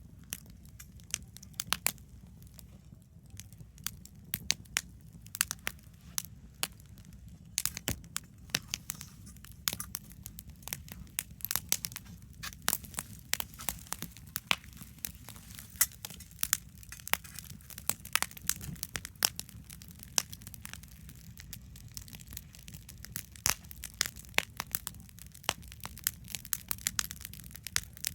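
Wood burning in a campfire, crackling with many irregular sharp pops and snaps, over a low steady rumble. The pops grow denser after the first several seconds.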